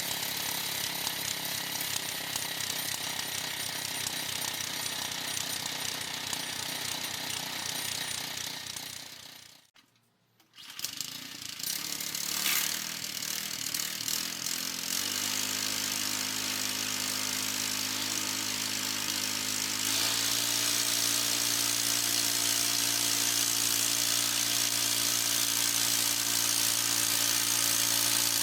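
Gasoline-engine band sawmill running under load. It cuts out suddenly about ten seconds in, then runs again with a steady engine hum that grows louder and slightly higher from about twenty seconds in.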